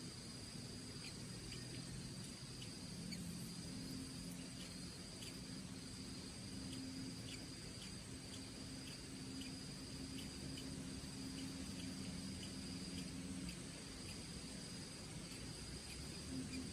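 Faint chorus of crickets or other insects: a steady high drone with soft ticks about twice a second, over a low background hiss.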